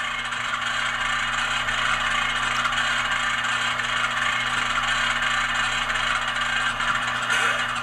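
ESU LokSound sound decoder in an HO-scale GE AC4400CW model playing the locomotive's idling diesel prime mover through its small onboard speaker, with the clicking of the handbrake being wound on. A short hiss of air starts near the end.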